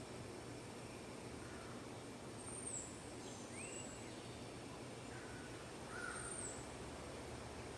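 Small birds chirping outdoors: several short, high-pitched chirps, some sliding down in pitch, come a few times over a faint, steady background hiss.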